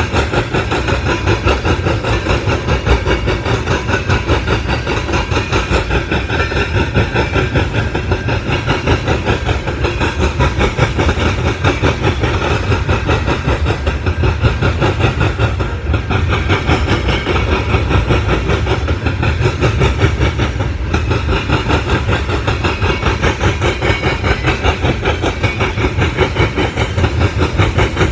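Illinois Central mixed freight train rolling past, a loud, steady rumble of its cars on the rails.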